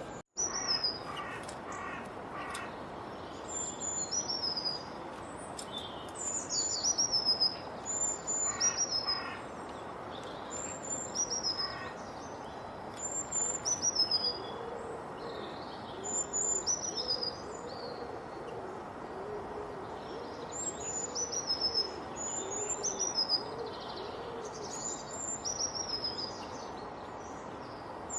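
Wild birds singing over a steady background hiss. High, falling whistled notes repeat every second or so throughout. Quick pulsed trills come in the first dozen seconds, and a lower repeated call runs through the middle.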